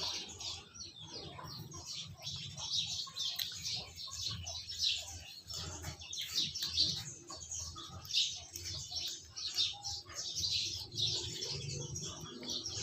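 Small birds chirping continually, with many short, high chirps overlapping one another.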